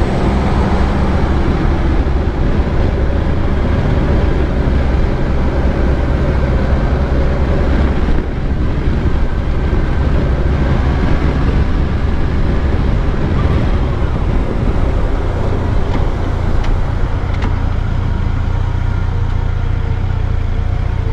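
Motorcycle engine running steadily on the move, heard from a helmet-mounted camera, with wind and road noise over it.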